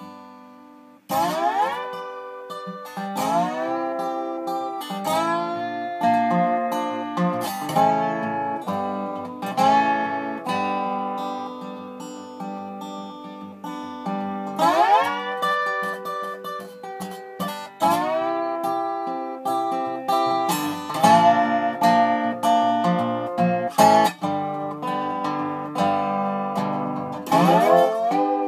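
Solo guitar playing an instrumental tune, plucked notes with frequent upward slides into them, without singing.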